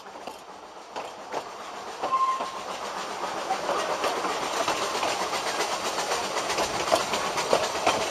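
Narrow-gauge Ffestiniog Railway coaches running along the track: a steady rattle of wheels on rail with many small clicks over the rail joints, growing louder about two seconds in.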